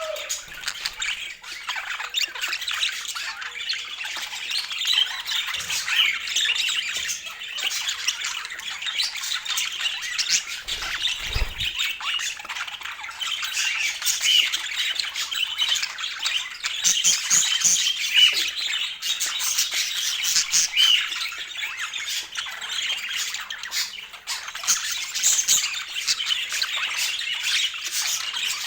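Budgerigars chattering and chirping continuously in a dense, busy warble, with one brief low thud about eleven seconds in.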